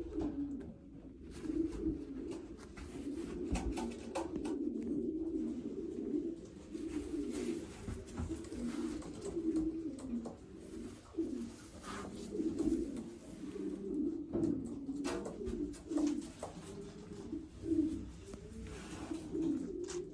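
Racing pigeons cooing, several birds overlapping in a continuous low warble.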